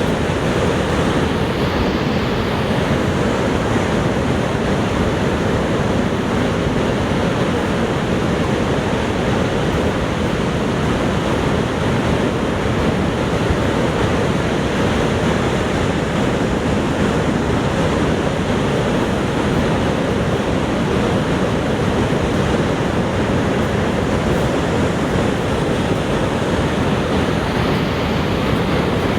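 Niagara Falls: a loud, steady rush of falling water, deep and unbroken.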